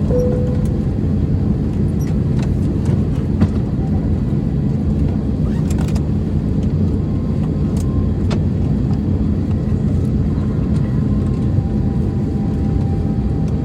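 Steady low rumble inside the cabin of an Airbus A321-200, with a few faint clicks. The lower note of a two-tone cabin chime sounds in the first half second.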